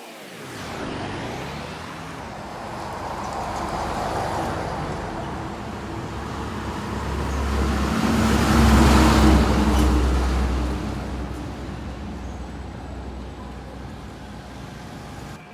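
A motor vehicle passing by: its engine and road noise build up to the loudest point about eight or nine seconds in, then fade away.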